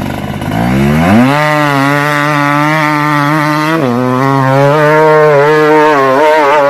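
Motorcycle engine revving up, then held at high revs, with a brief drop near the middle and quick rev blips right at the end.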